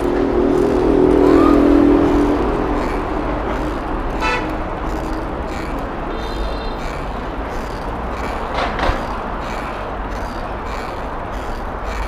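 Vehicle horn sounding for about two to three seconds at the start, the loudest thing here, over steady street traffic noise that carries on afterwards.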